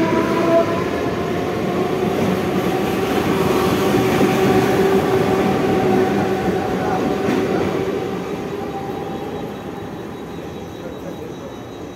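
Mumbai Central Railway EMU local train running past along the platform: a dense rumble of wheels on the rails with the electric motors' whine rising slightly in pitch, fading away over the last few seconds as the train draws off.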